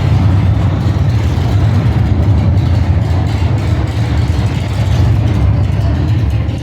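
A car engine running loud and steady, with a heavy, rapidly pulsing low rumble.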